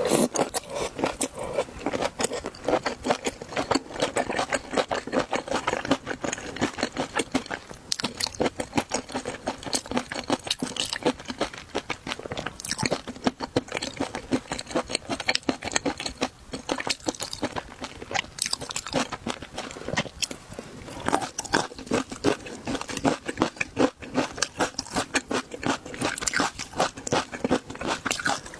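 Close-miked chewing and crunching of spicy chili shrimp and seafood: a dense run of rapid, irregular crackles with no pause.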